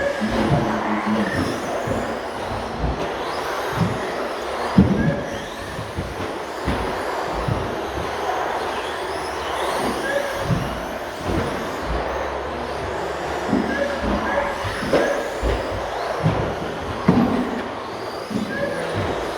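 Radio-controlled stadium trucks racing around a track: a mix of high motor whines rising and falling as they pass, with occasional sharp knocks.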